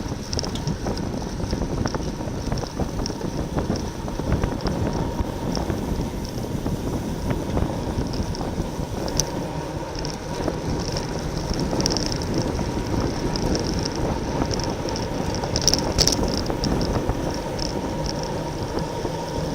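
Wind buffeting a racing bicycle's onboard camera microphone at race speed, over steady road and tyre rumble. A high hiss swells and fades, and there are a couple of sharp ticks.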